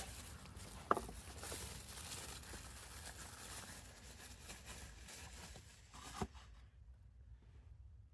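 Rustling and handling noise with a sharp click about a second in and another near six seconds, then it falls quiet.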